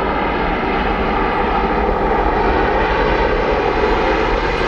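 Airliner engines running loud and steady, slowly getting louder.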